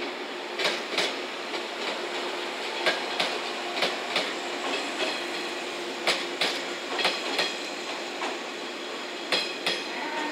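JNR 115 series three-car electric train passing at low speed, its wheels clicking over rail joints in pairs about a third of a second apart, a pair every one to three seconds over a steady hum. The last pair of clicks comes about nine and a half seconds in as the last car clears.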